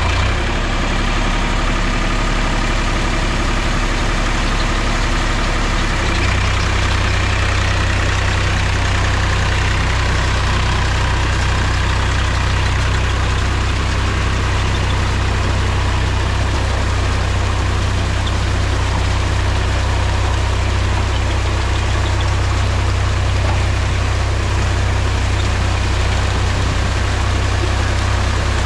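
Mahindra tractor's diesel engine running steadily, its low engine note shifting about six seconds in.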